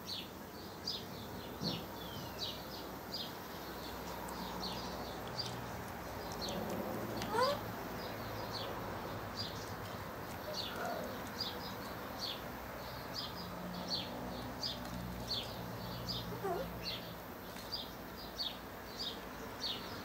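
Small bird chirping: short, high chirps repeated two or three times a second, with a few lower calls that rise in pitch.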